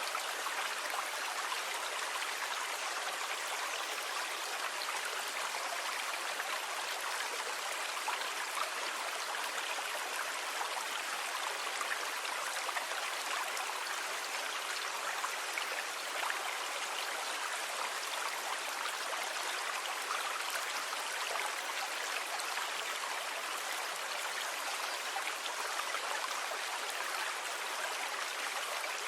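Sea ambience: a steady, even rush of water with no distinct wave swells or breaks.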